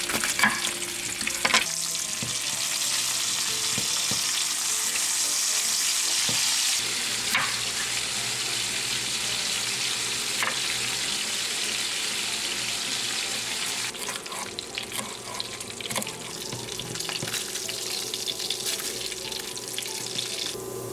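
Food sizzling in a hot frying pan: a steady hiss, loudest for the first several seconds and then softer, with a few light clicks of a utensil against the pan.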